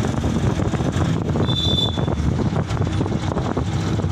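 Canter light truck on the move: steady engine and road noise, with wind buffeting the microphone. A short high-pitched tone sounds about a second and a half in.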